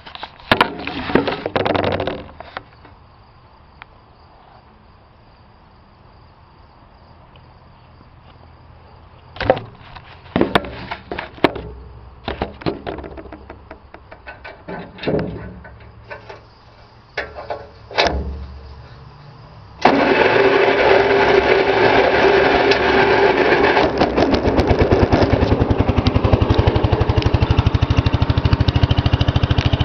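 Scattered clicks and knocks, then about twenty seconds in the Gravely 810's single-cylinder cast-iron Kohler 10 hp engine starts suddenly and runs steadily with a fast, even firing beat.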